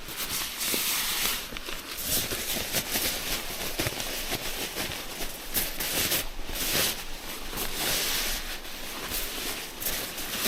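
Irregular rustling and scuffing as camping gear is handled and someone moves about, in uneven bursts of hiss-like noise.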